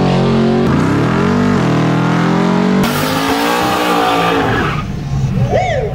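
Car engine accelerating hard through the gears, its pitch climbing and dropping back at each shift, then fading near the end.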